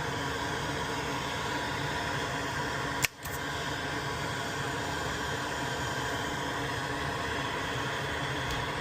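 Electronics rework tool running with a steady fan-like whir while solder is heated off a circuit board, broken about three seconds in by a sharp click and a brief dip.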